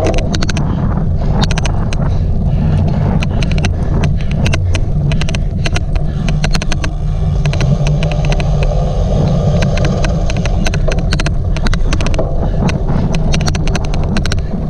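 Cyclocross bike ridden hard over rough ground: a heavy low rumble with wind buffeting the microphone. An odd clicking noise runs through it, with many sharp clicks at an irregular rate.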